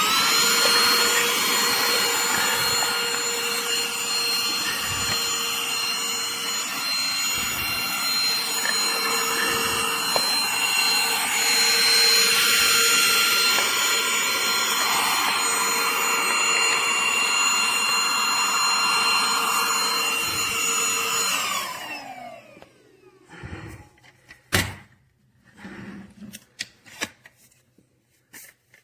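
Bissell AeroSlim cordless handheld vacuum running with a steady high whine, having just spun up. About 21 seconds in it is switched off and winds down with a falling whine, followed by a few clicks and handling knocks.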